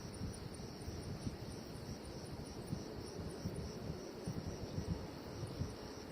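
Crickets chirping in a steady rhythm, about four or five short high chirps a second, over a continuous high insect buzz, with irregular low rumbling underneath.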